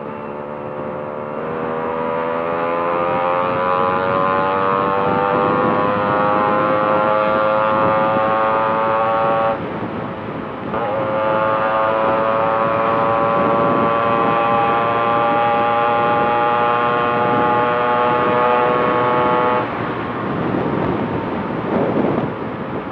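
Yamaha RX two-stroke single-cylinder motorcycle engine, fitted with an inbuilt-chamber exhaust, pulling on the highway, its pitch climbing slowly. About ten seconds in it drops out briefly, as at a gear change, then climbs again, and near the end the engine note falls away as the throttle is eased.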